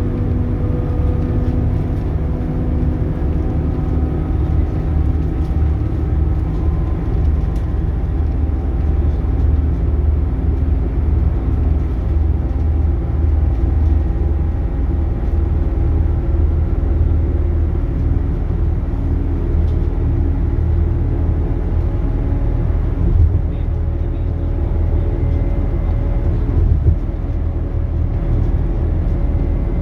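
Scania K280UB city bus running on the road: its Scania DC9 diesel and ZF Ecomat automatic driveline give a steady low rumble with whining tones that drift slowly up and down in pitch as speed changes. A brief knock comes near the end.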